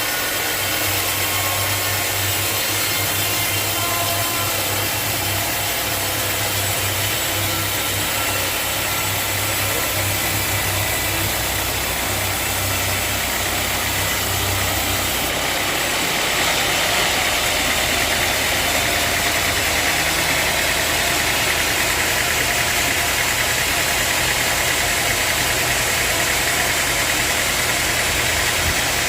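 Sawmill machinery running steadily with a loud mechanical drone. About halfway through the low hum changes and a harsher, higher noise comes up.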